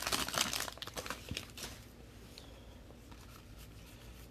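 Crinkling and rustling of a trading-card pack wrapper being handled, with light crackles for about the first two seconds, then dying away.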